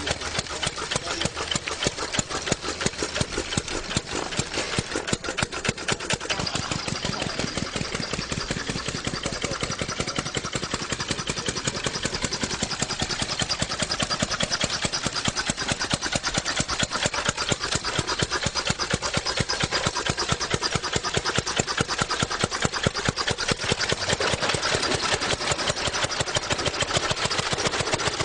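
Motorcycle engine running steadily at an even, rapid beat of firing pulses.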